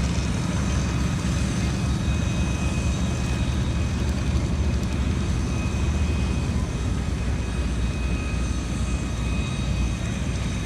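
Airplane engine running steadily, a constant low drone with faint steady whines above it.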